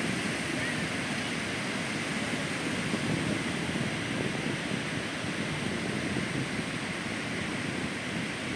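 Steady wash of ocean surf breaking on a sandy beach, an even noisy rush with no distinct events.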